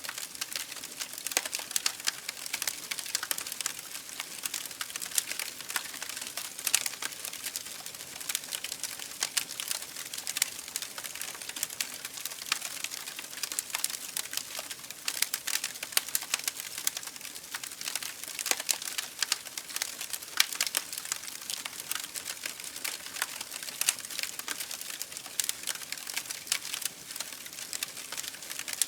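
Campfire burning with a steady hiss and dense, irregular crackling and popping of wood.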